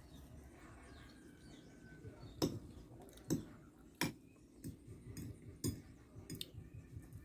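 Cutlery clinking against a plate during eating, about seven sharp clicks in a loose, uneven rhythm starting a couple of seconds in.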